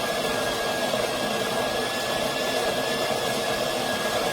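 Built-in coffee grinder of a De'Longhi espresso machine running steadily, grinding beans into the portafilter, with a steady high whine over the grinding noise.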